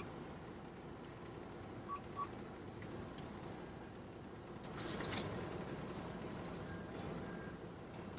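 Low steady hum inside a truck cab, with two short, identical beeps about two seconds in and a brief spell of crinkling and light clicks around five seconds in.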